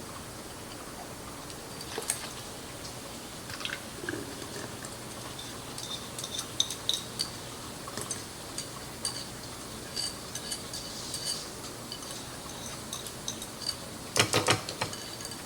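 Light clinks and taps of a utensil against a dish, scattered irregularly, with a louder clatter of dishes near the end.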